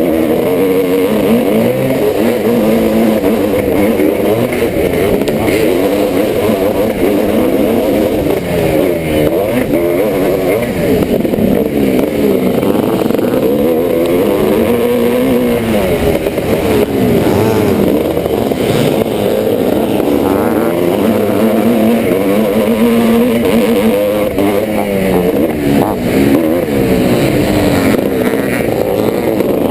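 The single-cylinder two-stroke engine of a 1986 Yamaha YZ490 motocross bike racing, its pitch rising and falling again and again as it accelerates, shifts and backs off.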